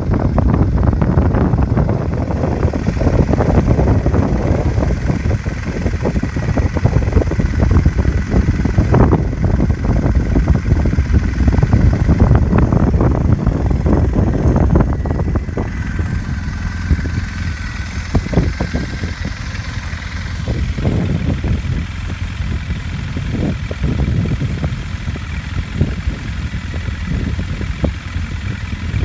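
2009 Triumph Bonneville T100's 865 cc parallel-twin engine running steadily through its exhaust, with a rapid low beat, a little quieter from about halfway through. Wind buffets the microphone.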